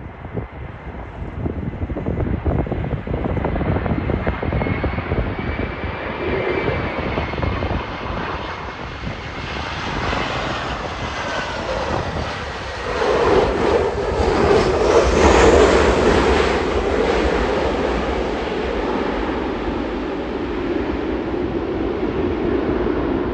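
Airliner engines growing louder as an aircraft passes close, with a whine rising in pitch and the noise at its loudest a little past halfway, then settling into a steady rumble. Strong gusty wind buffets the microphone throughout.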